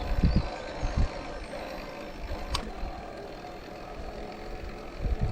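Wind buffeting the microphone in irregular low gusts over a steady rushing noise of riding along a road, with one short tick about halfway through.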